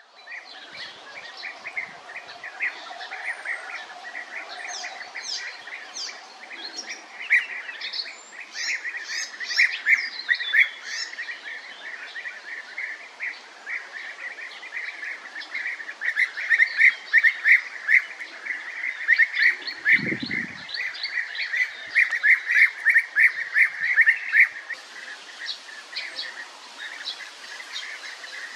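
European bee-eaters calling, many short repeated calls overlapping, busiest in the second half. A brief low thump about twenty seconds in.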